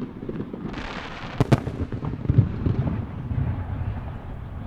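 Star mine fireworks barrage: aerial shells bursting in quick succession, with a rush of hiss about a second in, two sharp bangs just after, and a run of deep booms.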